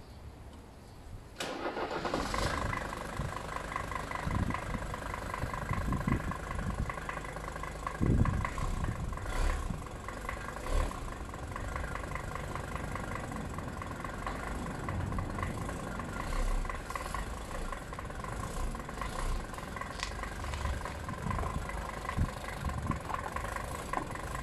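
Car engine running at idle. It cuts in abruptly about a second in and then runs steadily, with irregular low thumps under it.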